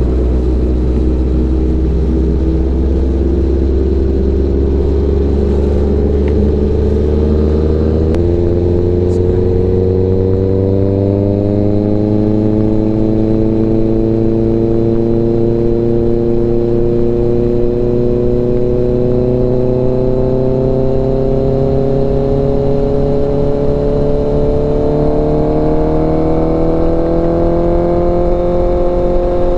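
Honda CBR650F's inline-four motorcycle engine running under way; its note changes suddenly about eight seconds in, then its pitch rises slowly and steadily as the bike gathers speed.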